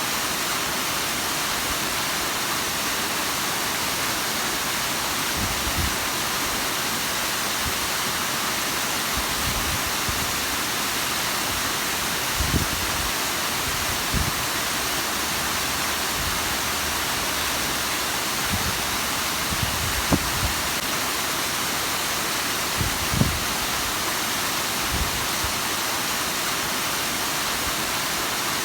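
Steady rush of the Bigăr waterfall's falling water, an even hiss with a few brief low thumps now and then.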